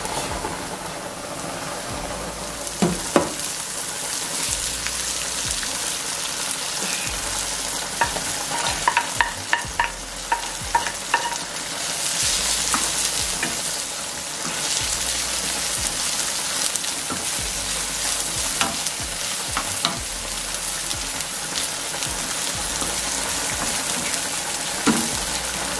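Sliced mushrooms sizzling in a hot non-stick frying pan, stirred with a wooden spoon that knocks against the pan now and then. About twelve seconds in the sizzle grows louder as sliced bell peppers and onions go into the pan.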